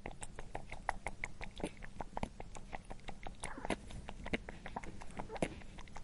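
A group of young rabbits feeding on hay: an irregular patter of small crunches and rustles from the straw, several a second.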